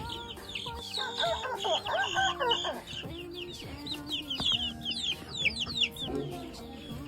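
Chickens clucking, with many short high chirping calls, over background music.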